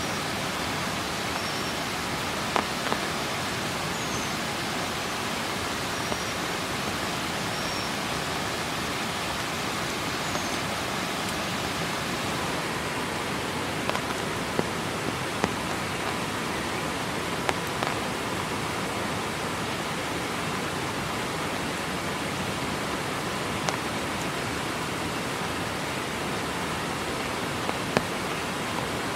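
Heavy tropical rain falling steadily in forest, a continuous even hiss with occasional sharp ticks of drops striking something close by. A few faint, short high chirps sound in the first ten seconds.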